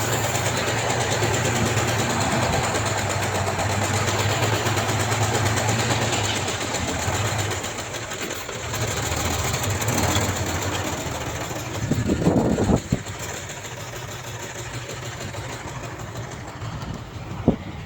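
Diesel engine of heavy earthmoving equipment running steadily, with a low hum that fades somewhat about halfway through, and a brief louder clank or scrape about two-thirds of the way in.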